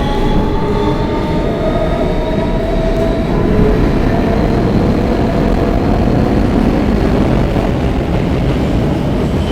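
R160B subway train with Siemens propulsion running between stations: the traction motors' whine, several tones gliding upward, fades in the first few seconds into a steady rumble of wheels on the track.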